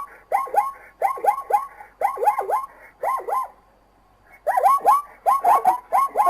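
An animal calling: short calls that fall in pitch, repeated in quick runs of two to four, with a pause of about a second near the middle before the calls come faster again.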